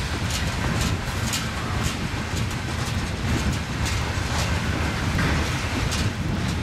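BNSF freight train rolling past with a steady low rumble, its wheels clicking over rail joints about twice a second.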